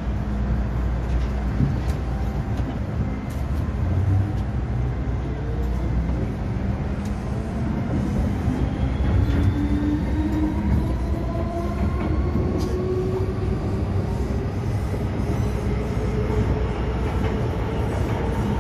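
MTR M-Train electric multiple unit pulling away and accelerating: a whine from the traction equipment rises steadily in pitch over the low rumble of the wheels on the rails.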